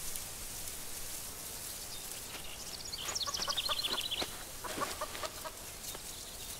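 Bird calls over a steady high outdoor hiss: a quick run of short notes about three seconds in, then a few fainter calls about a second later.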